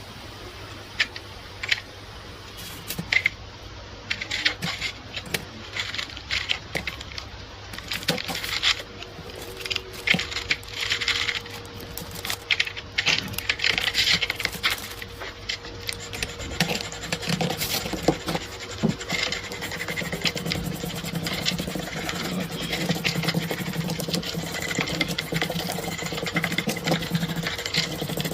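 Irregular metallic clicking, clinking and scraping as gun parts are worked on with hand tools. In the last third a small motor starts running steadily with a low hum.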